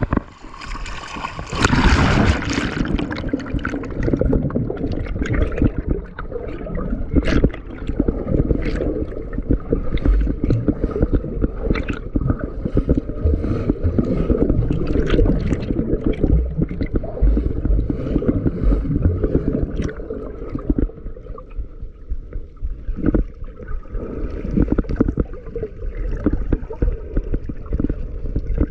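Water heard through a camera in the sea: a steady muffled rush with gurgling and scattered clicks and knocks, and a brief louder gush about two seconds in.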